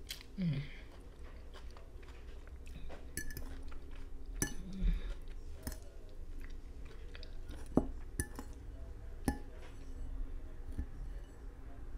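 Close-up chewing of salad, with a metal fork clinking against a plate several times.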